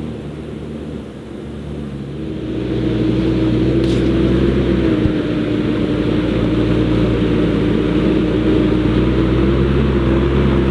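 Heavy diesel farm machinery running steadily, with a low rumble and a steady whine over it, getting louder about two and a half seconds in.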